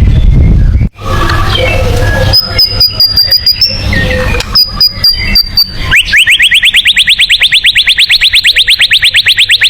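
White-rumped shama (murai batu) song: scattered high notes and rapid clicks over a low rumble, then from about six seconds in a fast, even trill of rising chirps, about ten a second.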